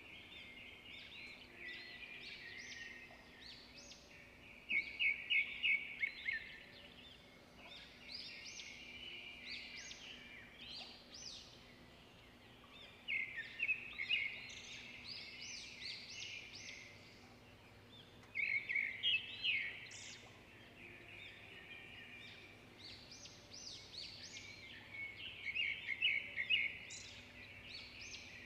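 Small birds chirping: short phrases of rapid, high chirps that come back every few seconds, each phrase lasting a second or two, over a faint steady hum.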